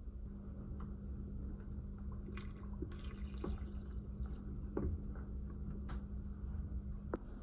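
Water dripping in an aquascape, scattered single drops over a steady low electrical hum.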